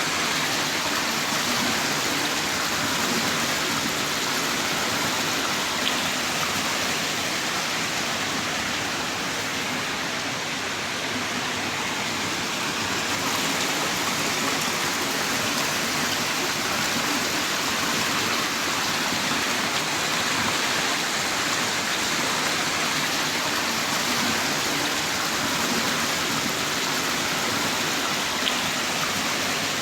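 Heavy rain pouring down in a steady, dense hiss, with an occasional louder drop.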